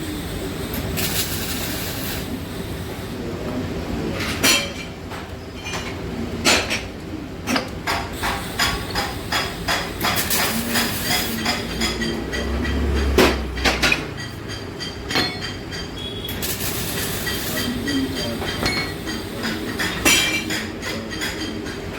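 Workshop clatter: irregular metallic clinks and knocks of tools on metal parts, over a steady low hum.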